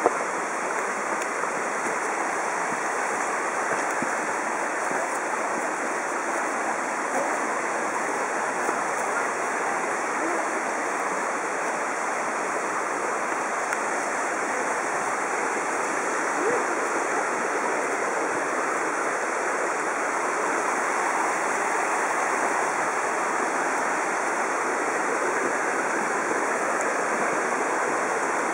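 Mountain stream running with a steady, unbroken rush of water.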